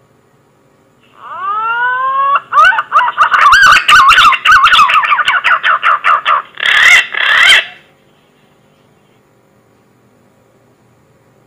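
Green pigeon (punai) call used as a hunting lure: whistled notes that begin with a few rising glides, then break into a fast wavering warble with sharp clicks. It ends in two louder notes and stops after about seven seconds.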